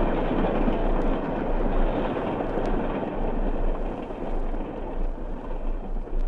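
Steam locomotive running, a dense steady roar that eases off a little over the last two seconds.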